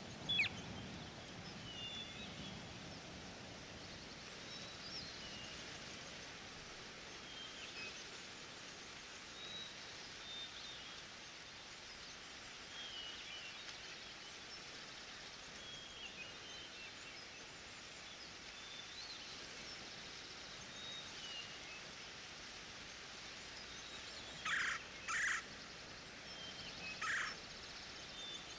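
Forest ambience: a steady hiss with scattered faint, high bird chirps, and near the end a louder bird calling in short bursts, two at a time, twice. A single sharp click sounds right at the start.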